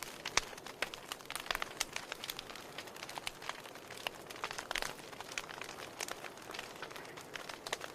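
Wood fire crackling in a fireplace: a steady hiss with irregular sharp pops and snaps, several a second.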